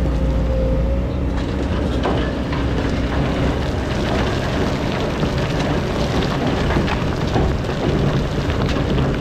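Excavator's diesel engine running while the bucket scrapes and grinds through hard-packed old sand. From about a second in, a rough, gritty scraping noise with scattered knocks and cracks covers the steady engine hum.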